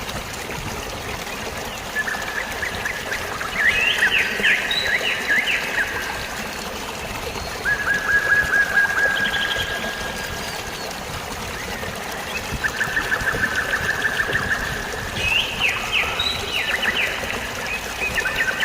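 Steady rushing water of a stream or waterfall, with birds singing over it in about five bursts, several of them fast trills held on one pitch.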